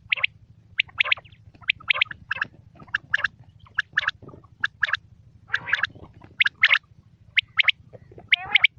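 Quail calling over and over: short, sharp, high notes in quick groups of two or three, a group about every second.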